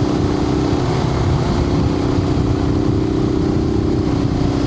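Suzuki TU250X's single-cylinder engine running steadily at cruising speed, heard through a microphone inside the rider's helmet, with a low rumble of wind and road noise. The engine note dips slightly about a second in, then holds steady.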